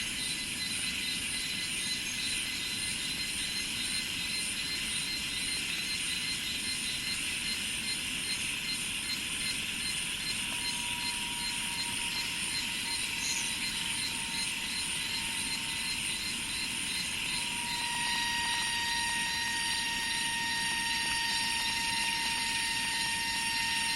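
A steady chorus of insects in rice fields, with rapid rhythmic chirping at two high pitches over a dense buzzing. About ten seconds in, a steady pitched hum joins, and it grows a little louder from about eighteen seconds.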